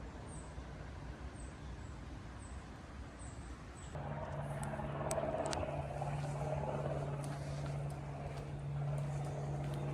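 A motor starts humming about four seconds in and then runs at a steady low pitch. In the first few seconds a faint high chirp repeats about once a second.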